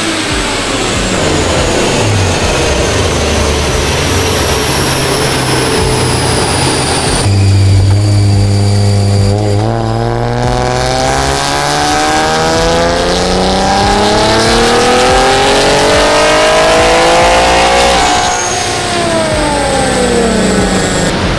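Twin-turbo 3.0 L V6 (Infiniti VR30) running on a chassis dyno. For the first few seconds it holds a steady speed with a thin high whistle over it. From about ten seconds in the revs climb steadily for about eight seconds in a full-throttle pull, then drop away as it comes off the throttle, with a high whistle near the end.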